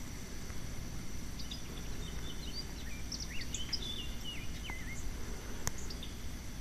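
Outdoor background with a steady low rumble, over which a bird sings a run of short chirps and whistles in the middle, and a single sharp click near the end.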